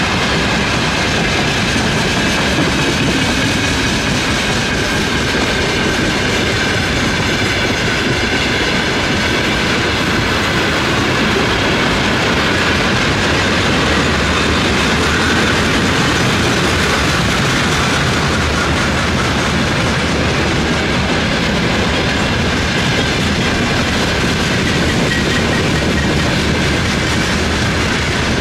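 Freight train wagons rolling past at close range: a loud, steady rumble and clatter of steel wheels on the rails that does not let up.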